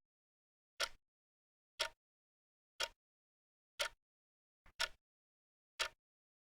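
Clock-like ticking sound effect, one sharp tick about every second with a quick double tick about two-thirds of the way through, and dead silence between the ticks: the countdown timer of a quiz.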